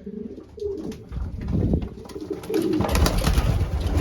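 Racing pigeons cooing, low wavering calls, with a low rumbling noise building from about a second in and loudest near the end.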